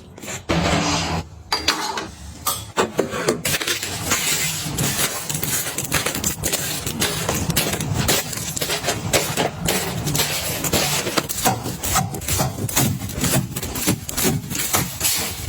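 Items being handled during restocking: a few separate clicks, then, from about two seconds in, continuous rustling and scraping full of small clicks and knocks.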